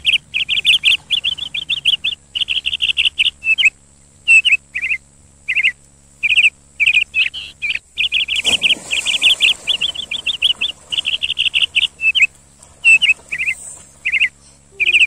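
A bird chirping almost without pause, in quick runs of high chirps broken by short gaps. About eight seconds in, a splash as a child jumps into the water.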